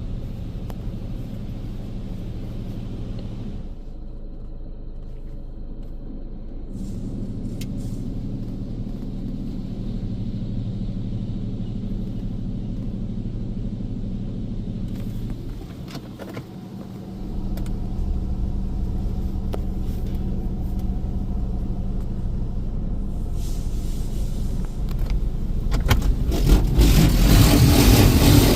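Water Wizard automatic car wash running its rocker panel blasters: a steady hum of pumps and motors that drops away briefly twice, then a loud rush of spray building over the last few seconds.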